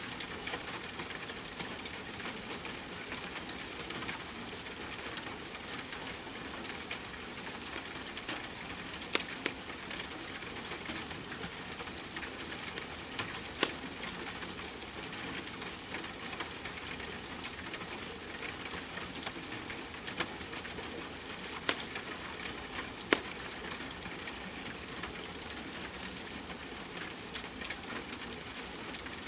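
Steady rain hiss mixed with a crackling wood fire, with a handful of sharper pops from the fire spread through the stretch.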